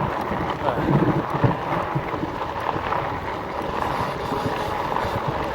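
Wind buffeting the microphone in a steady rush, with some tyre and motion noise from the electric fat-tyre bike, a few stronger gusts about a second in.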